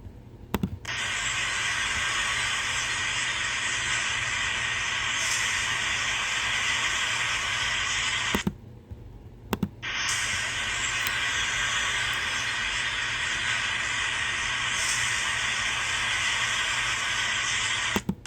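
A steady wall of dense chatter from a large flock of birds calling all at once, heard as a continuous hiss-like din. It cuts out briefly about halfway through, with a couple of clicks, then resumes.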